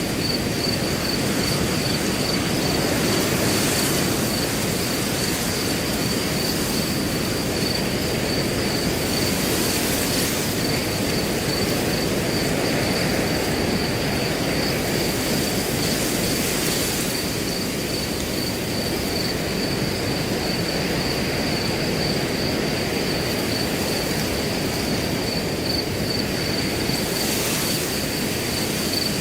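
Wind blowing steadily through grass, with gusts rustling the blades every few seconds, under a cricket chirping continuously in a rapid, even, high-pitched pulse.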